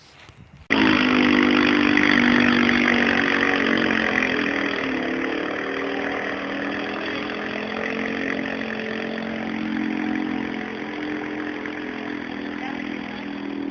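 Engine running steadily, starting abruptly less than a second in and holding an even, slightly wavering pitch.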